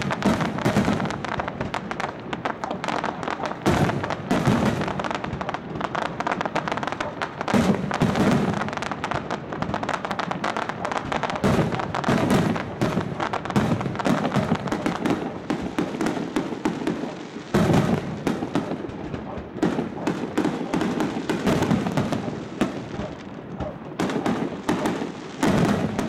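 Fireworks display: a continuous barrage of sharp bangs and dense crackling from aerial shells and ground fountains, with heavier reports every second or two.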